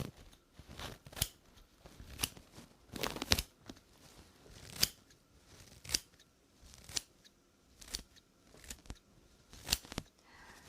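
Scissors snipping through wig hair close to the microphone, a sharp snip about once a second.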